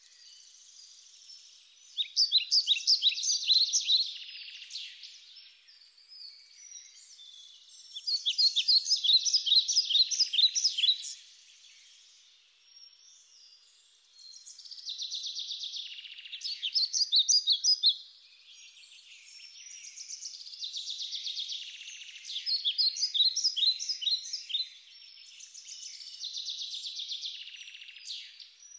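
Songbirds singing: fast trilled phrases of quick falling notes, each lasting a few seconds and coming back every five or six seconds, with fainter chirping in between.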